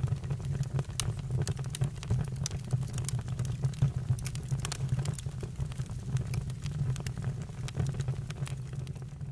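Campfire crackling, with many irregular sharp snaps and pops over a steady low rumble of the flames.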